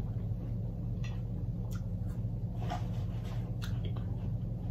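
Soft chewing and mouth clicks from eating fresh fruit: a few faint, scattered ticks over a steady low hum.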